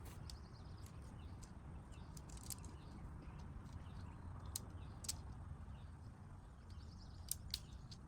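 Quiet outdoor ambience: a steady low rumble with scattered sharp clicks and taps, and faint bird chirps.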